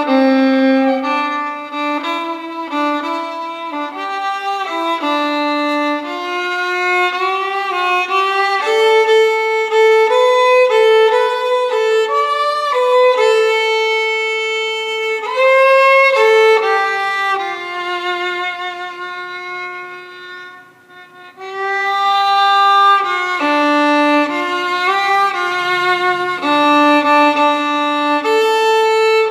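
Solo violin playing a melody note by note, with a short break in the phrase about two-thirds of the way through.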